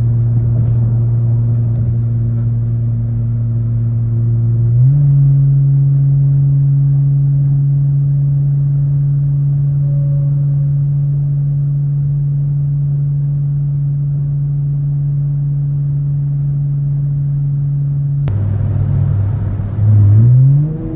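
A car's engine and exhaust droning steadily while cruising, heard from inside the cabin. The pitch steps up about five seconds in and holds, drops a little near the end, then swells louder and climbs briefly as the car accelerates.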